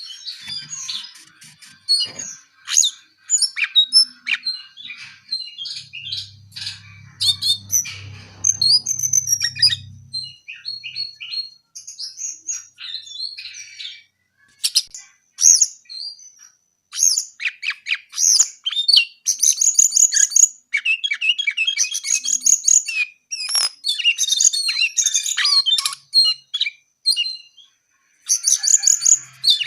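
Jongkangan coklat songbird singing nonstop in rapid runs of high chirps and twittering trills, broken by short pauses. A low hum sounds underneath from about six to ten seconds in.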